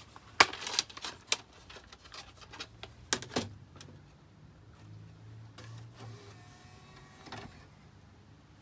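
A series of sharp mechanical clicks and knocks, then a low steady hum with a faint electronic tone, and one more click near the end.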